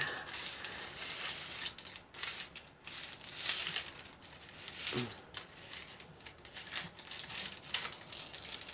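Irregular crinkling and rustling of craft materials being handled, with a few short rattles.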